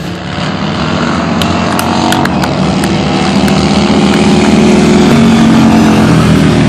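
Racing motorcycle engines running, growing louder to a peak about five seconds in, with a few sharp ticks about two seconds in.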